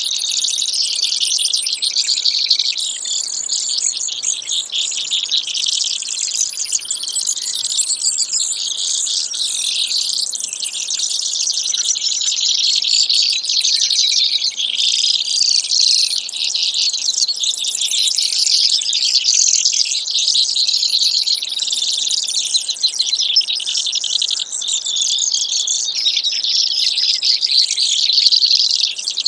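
Brewer's sparrow singing: a continuous run of rapid, high trills and chirps with no pause.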